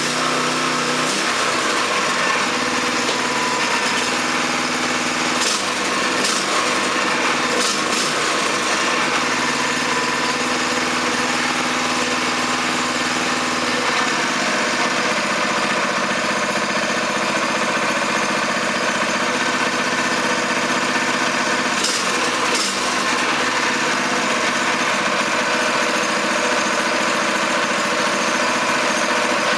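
Kawasaki FG200G single-cylinder engine running steadily on its first run after a complete rebuild, its note shifting slightly about halfway through, with a few faint ticks.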